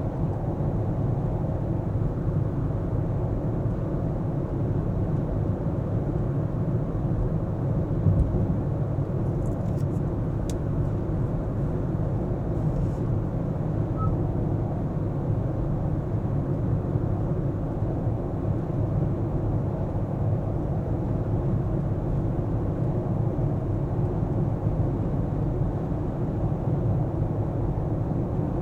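A car driving, with a steady rumble from the road and engine. A brief knock comes about eight seconds in, and a few faint clicks follow shortly after.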